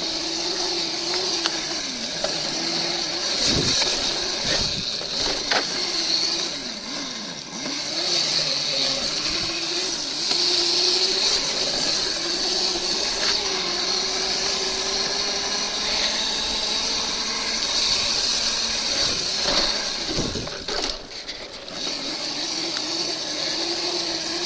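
Razor electric dirt bike running, its motor whine rising and falling in pitch with speed, broken by a few sharp knocks.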